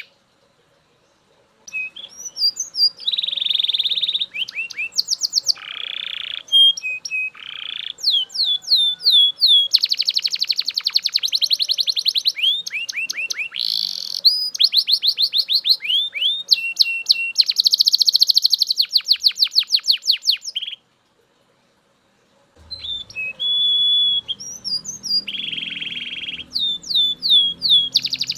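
Male Belgian canary singing loudly: fast runs of repeated trill notes and rolls, with a few held tones between them. The song starts about two seconds in, breaks off for about two seconds near the end, then starts again.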